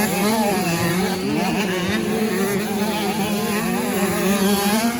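85 cc two-stroke motocross bike engines running hard, their pitch wavering up and down as the throttles open and close, with more than one bike heard at once.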